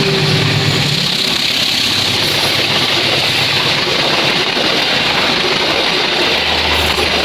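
Diesel-hauled passenger train passing close by, its carriages rolling over the rails in a loud, steady rumble. A low engine hum fades about a second in, and another low hum comes in near the end.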